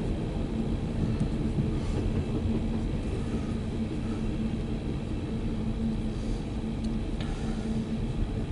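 Empty coal train's hopper cars rolling past in a steady low rumble.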